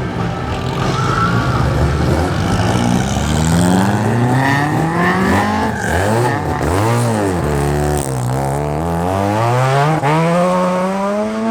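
Car engine revving hard: the pitch climbs for a few seconds, then the throttle is blipped up and down several times in a quick rhythm, then it climbs steadily again toward the end.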